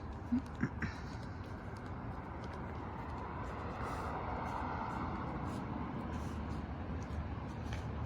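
Steady road or rail rumble inside a moving vehicle, with a couple of brief knocks in the first second.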